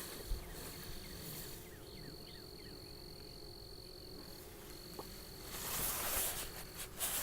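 Outdoor insect sounds at an open beehive: a high, steady trill that stops and starts, over a faint low hum of honey bees. A brief rustle of handling comes about six seconds in.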